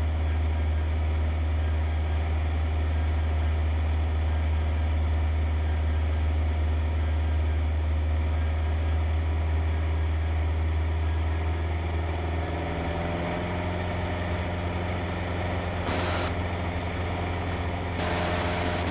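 Cessna 152's four-cylinder Lycoming engine and propeller droning steadily in flight, heard from inside the cabin. About two-thirds of the way through, the pitch of the drone shifts.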